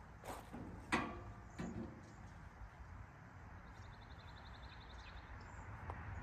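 Three metallic clanks of metal car body parts being handled, the loudest about a second in with a brief ring. A faint high rapid trill follows in the middle.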